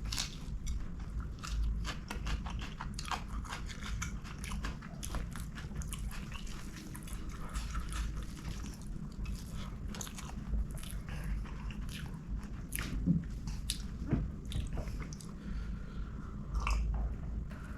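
A person chewing and biting food close to the microphone while eating string hoppers with curry, sambol and green chili: a continuous run of short, crisp crunches and wet mouth clicks.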